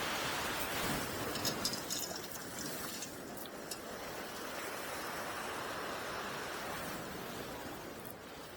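Rough sea surf: breaking waves rushing as a steady roar of water. About a second and a half in comes a short run of sharp crackles.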